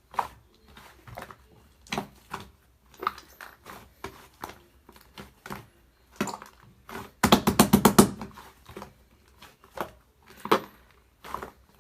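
Fluffy slime being squished and pressed by hand, giving scattered sticky clicks and soft squelches, with a quick run of about ten pops a little past the middle.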